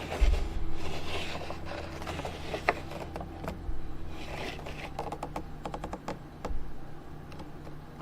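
Light clicks, taps and scrapes of a toy monster truck being handled, with a quick run of small clicks about five seconds in.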